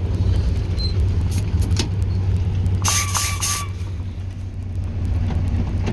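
YaMZ-236 V6 diesel of a TU6A narrow-gauge locomotive idling steadily. About three seconds in there is a short, high hiss with a whistling tone.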